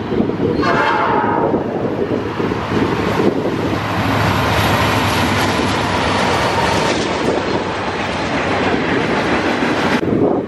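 Norfolk Southern diesel freight train passing close, with a short horn blast of about a second starting about half a second in. The train then rolls by with locomotive engine rumble and the steady noise of wheels on rail.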